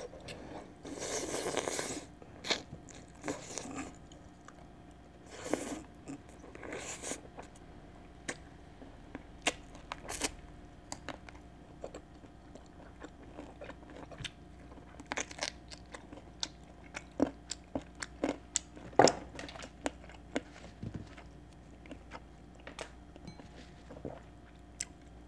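A person chewing and biting boiled chicken close to the microphone: irregular short clicks and smacks of the mouth, with a few longer noisy sounds in the first few seconds.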